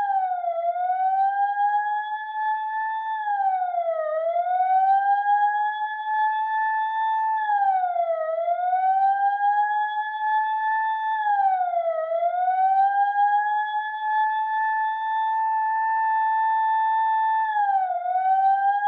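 Police car siren sounding a slow wail. The pitch holds high, then dips and climbs back again about every four seconds, with a longer steady hold before the last dip near the end.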